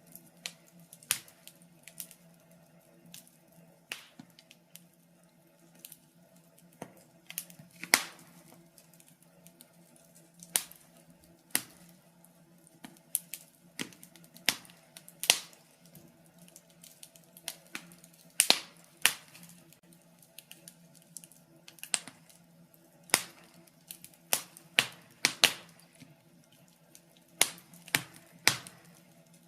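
Wood fire in a fireplace crackling: irregular sharp pops and snaps, a few louder ones, over a faint steady low hum.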